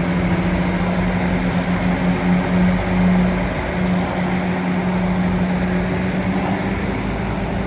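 Bulldozer's diesel engine running steadily at a constant pitch, with an even hum.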